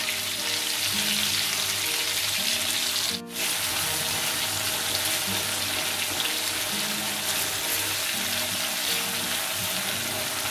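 Tomato pieces, green chillies and nigella seeds sizzling steadily in hot mustard oil in a kadhai and being turned with a spatula, with soft background music underneath. The sound dips out briefly about three seconds in.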